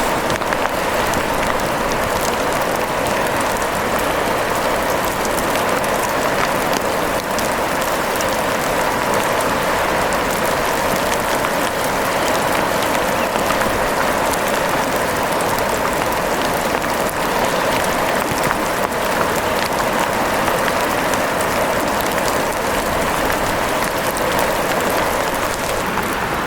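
Steady rain falling: a dense, even hiss with many small ticks of drops running through it.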